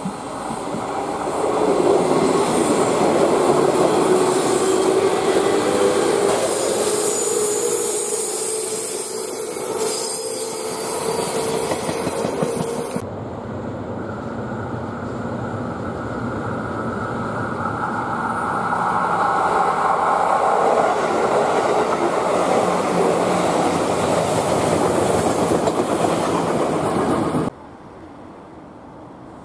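Electric commuter trains passing at trackside: steady wheel-on-rail noise, with a slowly rising motor whine under the first train, a green JR West 201 series. An edit cuts it off suddenly about halfway, and a second passing train swells up until another sudden cut near the end.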